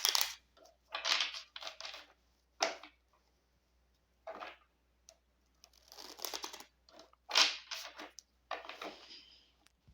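A deck of tarot cards being shuffled by hand, in a series of short papery bursts with brief pauses between them.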